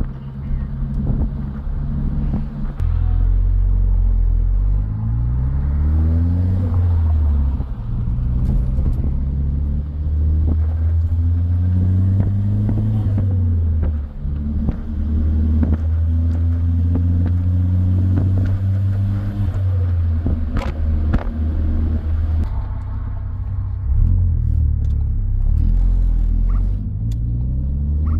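Ford Focus ST's turbocharged four-cylinder engine pulling through the gears under a deep rumble. The engine note rises several times, drops back at each shift, and holds steady in between.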